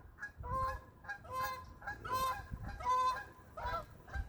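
Geese honking over and over, a run of short calls about two a second.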